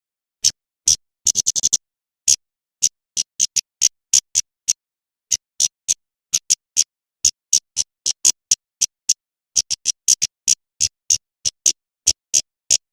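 Female kemade bird giving short, sharp, high chip calls over and over, about three or four a second with a quick flurry of them near the start: the female's call, played as a lure to draw in male kemade.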